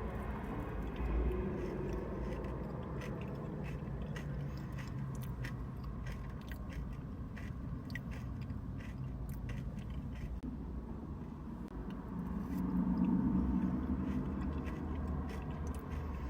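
Close-up mouth sounds of someone chewing and biting into Dubai chocolate cake, with many small wet clicks and crunches. A louder low hum-like sound comes about twelve seconds in.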